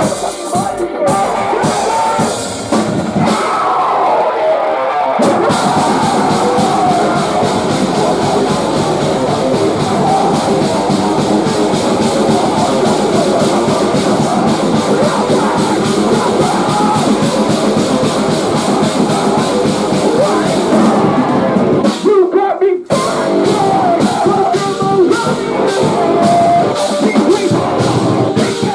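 Post-hardcore band playing live with distorted electric guitars and a drum kit. The low end thins out about three seconds in, and the full band comes back in about two seconds later. The whole band stops short for a moment about three-quarters of the way through, then crashes back in.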